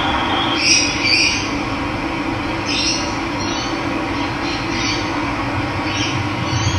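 Steady rush of running water with a bird chirping repeatedly over it, short calls coming in pairs every second or two.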